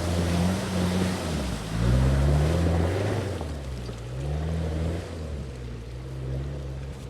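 A Toyota Prado's engine revving hard under load as it drives at an off-road obstacle with a run-up. The revs rise and fall several times, loudest about two seconds in, then settle lower near the end.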